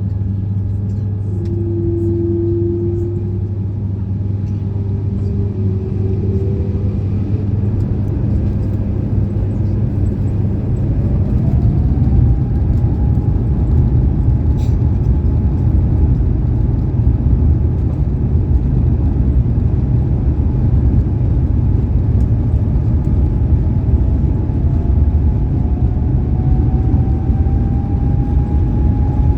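Airbus A350-900 cabin noise as its Rolls-Royce Trent XWB engines spool up for takeoff. A steady low hum gives way, about eleven seconds in, to a rising engine whine, and the noise grows louder; the whine keeps climbing slowly after that. A short tone sounds about two seconds in.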